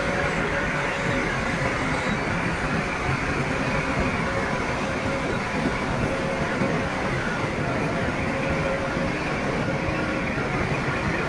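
Crawler bulldozer working: its diesel engine runs steadily under a continuous metallic clatter.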